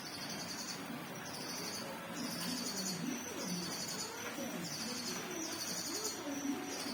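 Small cage birds chirping: short, high-pitched chirp phrases repeated about once a second, with a fainter low, wavering sound underneath.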